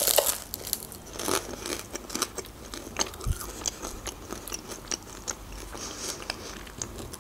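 A bite into a crisp fried pastry pie right at the start, then close-up chewing with many small crunches and crackles.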